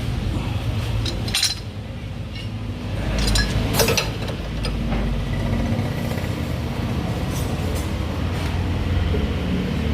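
Hand tools and metal parts clinking and knocking in a few sharp strikes, over a steady low rumble of a running engine or workshop machine.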